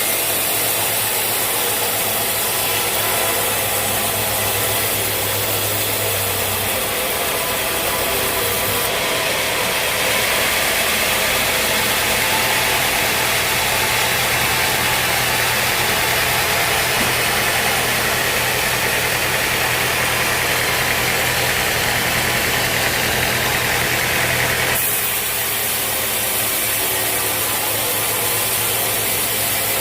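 Sawmill machinery running steadily. A brighter, harsher sound joins it about nine seconds in and drops away about five seconds before the end.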